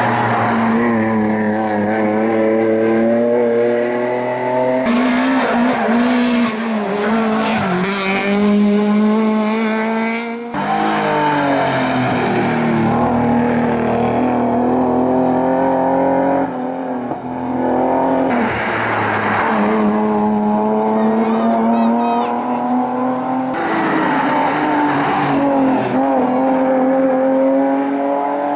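Racing car engines at high revs, climbing through the gears with the pitch sagging and jumping at each shift. Several passes are cut together, so the sound breaks off and restarts every few seconds.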